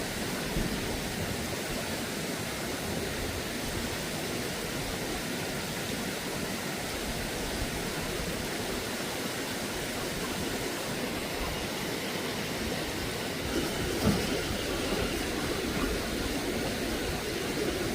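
Steady rushing of a flowing stream, with a brief louder bump about fourteen seconds in.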